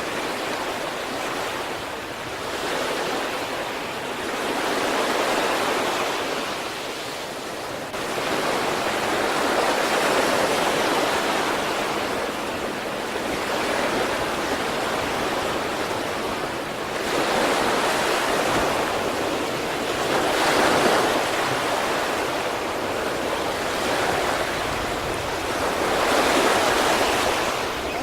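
Sea waves breaking and washing up the shore, a steady rushing that swells and falls back every few seconds.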